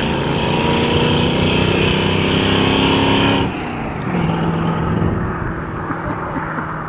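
Chevrolet small-block V8 pickup engine pulling under throttle, its pitch creeping up, then the throttle closing sharply about three and a half seconds in, leaving a lower engine note that fades away.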